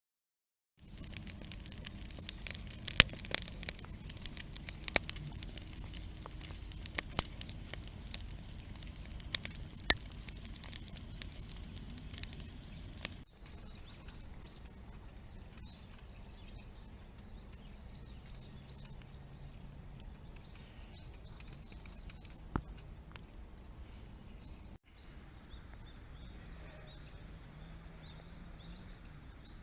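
Outdoor ambience in rain, in three cuts. The first part has a steady patter and many scattered sharp pops and clicks. After a cut about 13 seconds in, it is quieter, with birds chirping faintly.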